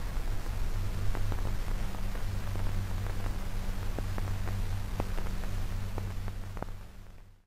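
Old film soundtrack noise: a steady hiss over a low mains hum, with scattered crackles and pops, fading out just before the end.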